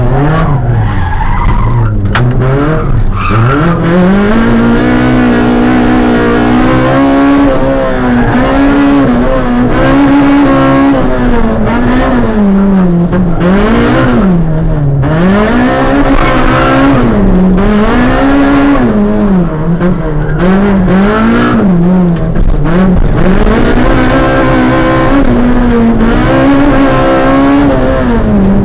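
Small race-prepared hatchback's engine heard from inside the cabin, driven hard through a slalom course: the engine note climbs and drops again and again as the driver accelerates, lifts and shifts between cones.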